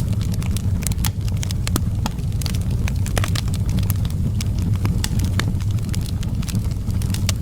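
Wood fire in an outdoor fireplace crackling, with many sharp, irregular pops over a steady low rumble of flames.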